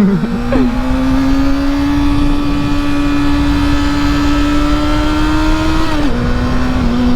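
Honda CBR motorcycle engine pulling under acceleration, its pitch climbing steadily. It drops sharply about half a second in and again about six seconds in as the bike is shifted up a gear, the second a smooth upshift.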